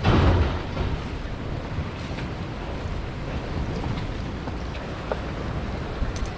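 Wind buffeting the microphone over choppy water washing against the pier, with a brief loud rumble at the very start and a few faint ticks.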